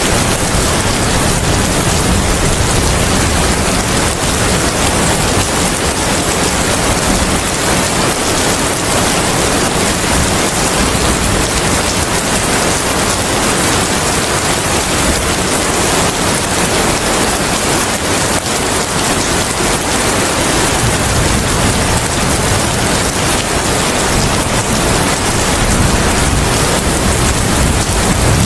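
Steady rain with wind, a constant hiss with a low rumble underneath that swells near the end.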